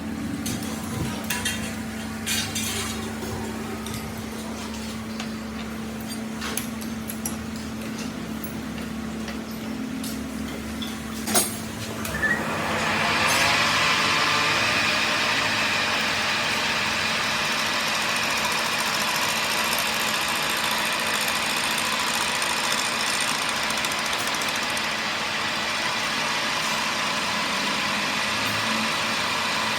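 Workshop machinery: a steady hum with a few sharp knocks, then about twelve seconds in a machine starts up with a loud, steady hissing noise that carries on.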